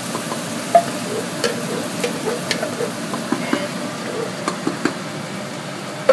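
Garlic and onions sizzling in hot oil in a pan while being stirred, with irregular clicks and scrapes of the utensil against the pan.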